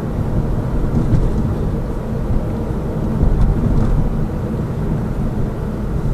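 Lada Vesta Cross heard from inside the cabin, driving slowly over bumps and cracks: a steady low rumble of tyres and suspension with a few faint knocks. There is no suspension rattle, because the SAAZ shock absorber struts have been replaced.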